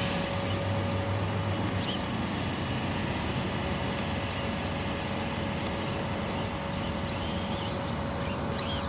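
Steady drone of mowers running, with a constant hum throughout. Near the end come short rising-and-falling whines, fitting the electric RC buggy's motor being throttled in bursts.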